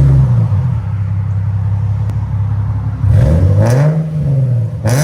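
2011 Nissan 370Z's 3.7-litre V6 running through a Remark titanium cat-back exhaust. It drops from a rev to a steady idle, is blipped once about three seconds in, and revs again at the very end.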